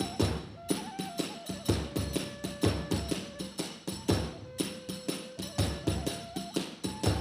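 Kagura festival music: a bamboo flute plays a held, stepping melody over a fast beat of drum strokes and small clashing hand cymbals, about three to four strikes a second.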